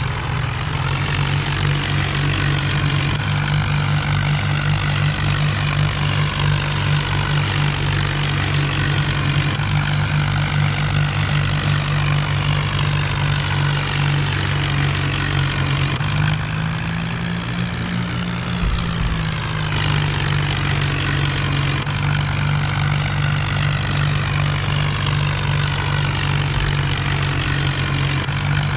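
Tractor diesel engines running steadily under load in a tractor tug-of-war (tochan), the engine note rising for a few seconds about halfway through.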